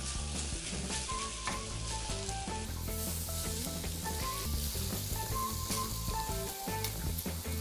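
Oiled waffle pan sizzling as shredded potato batter is laid in with tongs, a steady crackle of frying, under background music with a simple melody.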